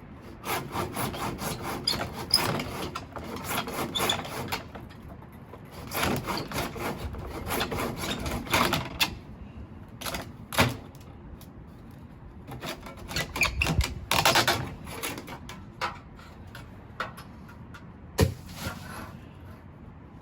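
Hand sawing: quick back-and-forth strokes, about four a second, in four bursts with short pauses between.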